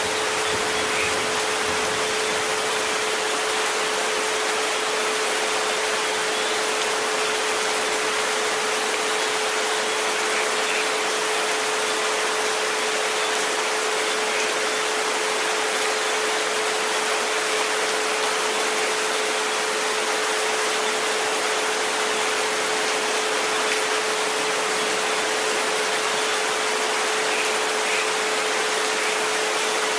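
Steady rain hiss with a continuous pure tone near 432 Hz held underneath it, unchanging throughout.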